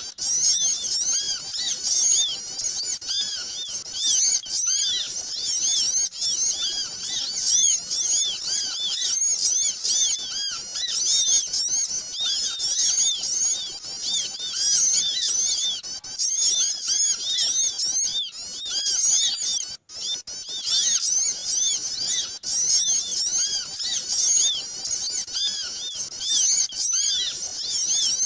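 Dense chorus of many small birds chirping at once, short high arching calls overlapping without pause, with a brief break about two-thirds through. It is a bird-lure (pikat) recording of noisy small-bird calls, used to draw small birds in.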